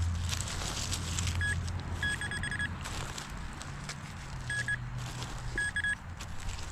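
Metal detector giving short high beeps, once at first, then a quick run of them about two seconds in and two more short bursts near the end, signalling a buried metal target. Scattered clicks and a low steady hum sit underneath.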